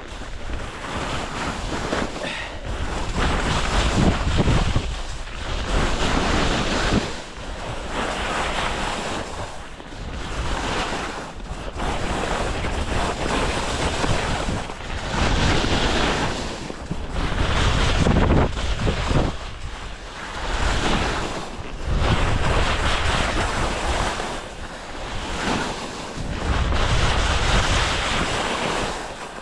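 Wind buffeting the microphone in gusts: a loud rushing noise with a deep rumble that surges and eases every couple of seconds.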